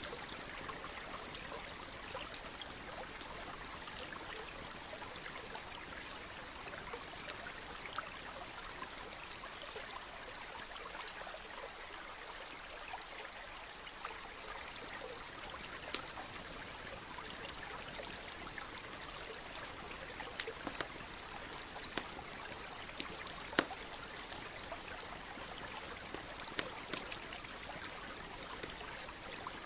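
A stream trickling steadily, overlaid with the scattered sharp pops and crackles of a campfire, a few of them louder than the rest.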